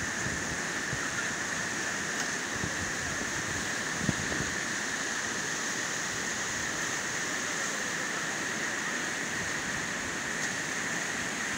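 River water rushing steadily over stones, swollen and in heavy flow. A brief faint knock about four seconds in.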